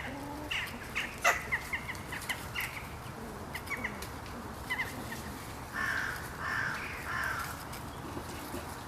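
Birds chirping: many short, high chirps, with three harsh, rasping calls in a row about six seconds in.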